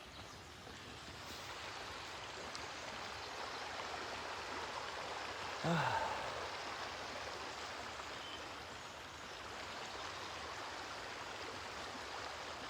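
Mountain creek flowing steadily, a constant rushing of water. About six seconds in there is one brief, louder sound that falls in pitch.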